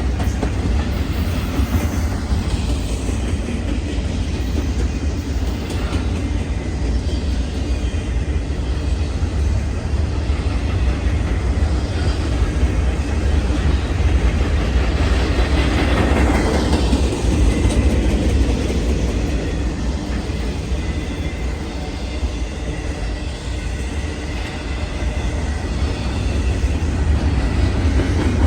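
Train rolling past, a steady rumble and clatter of wheels on rail joints that swells about halfway through.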